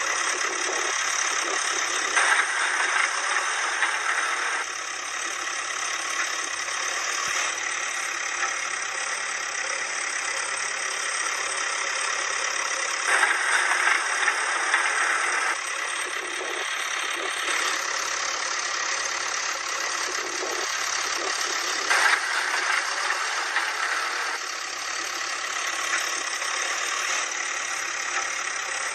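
Heavy-vehicle engine sound effect running steadily, growing louder and harsher for a couple of seconds three times, about every ten seconds.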